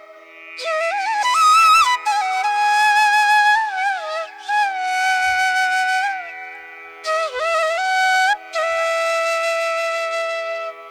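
Background music: a flute plays a slow melody of long held notes that bend and slide between pitches, over a steady drone.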